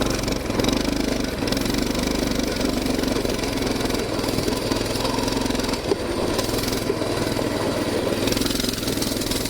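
Coleman BT200X mini bike's 196cc single-cylinder engine running at a fairly even level.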